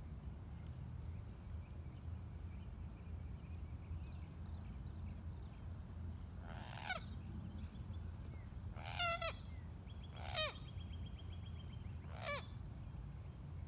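A bird calling four times, each call short and falling in pitch, over a steady low rumble.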